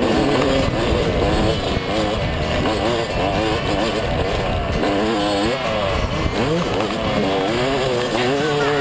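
Two-stroke engine of a 2010 Yamaha YZ250 motocross bike being ridden hard, its pitch repeatedly rising and falling as the throttle is worked.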